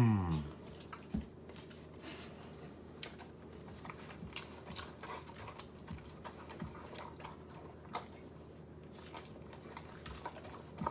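A dog chewing and crunching lettuce: many irregular crisp clicks and crunches. A brief falling-pitch vocal sound comes right at the start.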